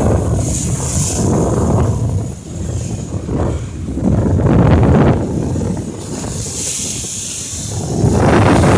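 Wind buffeting the microphone in gusts, with ocean surf washing behind it.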